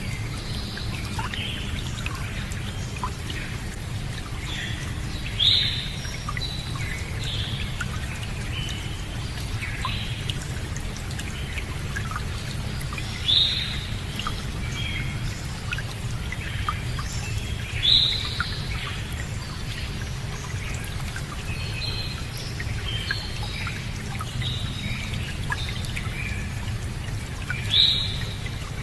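Birds singing and calling over steady running water. Many short chirps go on throughout, and one louder call that sweeps down in pitch comes four times.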